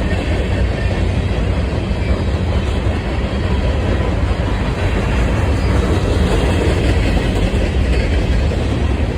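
Union Pacific freight train rolling past, a loud, steady rumble of wheels on the rails.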